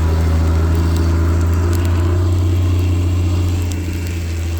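A vehicle engine running steadily with a low hum, easing off slightly near the end.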